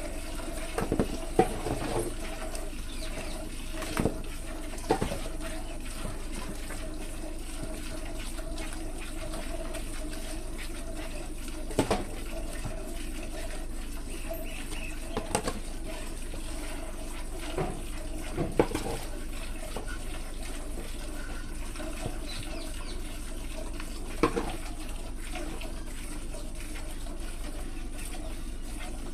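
Milk streaming into a pail as a buffalo is milked, a steady liquid filling sound with a few sharp knocks scattered through it.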